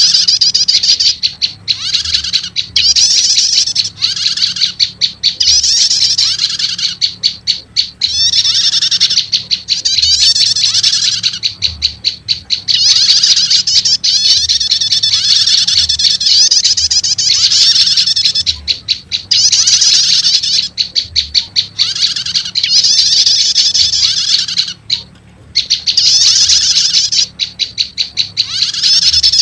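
Looped bird-lure recording of olive-backed tailorbird (prenjak lumut) calls combined with a prenjak 'starter' call: loud, fast, high-pitched chattering of rapid ticking notes and buzzy trills, repeated in phrases of a second or two with brief pauses. It is a lure call meant to draw in wild tailorbirds.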